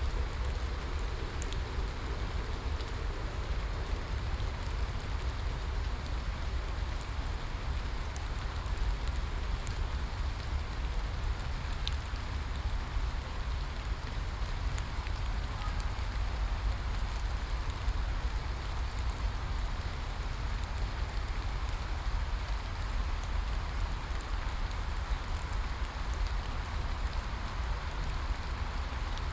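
Steady rain falling, with scattered sharp drop ticks over a continuous hiss and a deep low rumble underneath.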